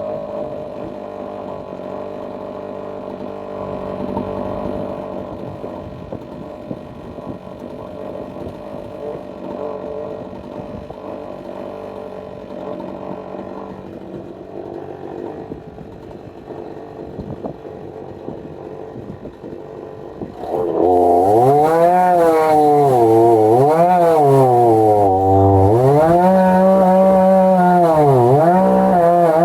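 Two-stroke gas chainsaw on a chainsaw mill running steadily at first. About 21 s in it becomes much louder, and its engine pitch drops and rises again several times, as the load on the cut changes.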